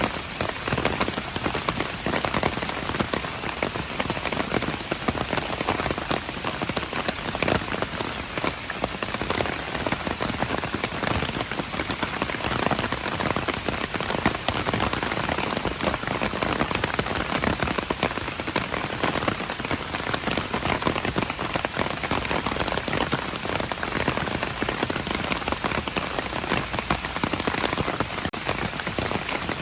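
Steady rain falling and pattering on hard surfaces, a dense even hiss of many close drops.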